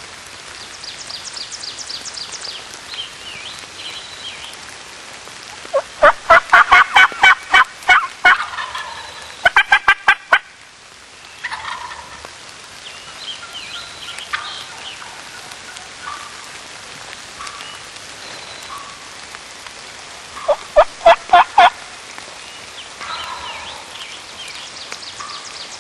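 Eastern wild turkey gobbler gobbling hard at close range, three loud rattling gobbles, the first about six seconds in, the last about three-quarters of the way through. Rain hisses steadily underneath, with faint songbird calls between the gobbles.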